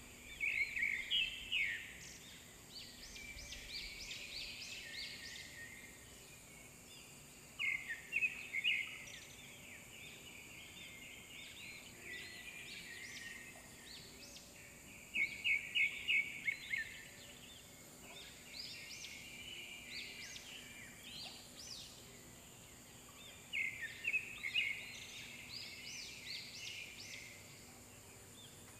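A bird singing a short phrase of quick notes, repeated about every seven to eight seconds, with fainter high calls between the phrases.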